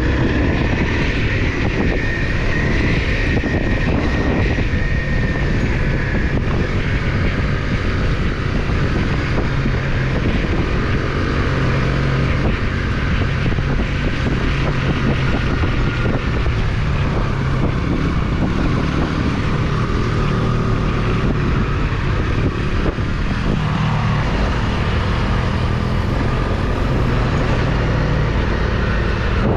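Off-road motorcycle engine running steadily under way, with wind buffeting the microphone.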